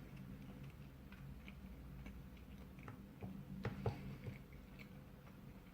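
Faint chewing of pizza with small mouth clicks, a few sharper clicks about three and a half seconds in, over a low steady hum.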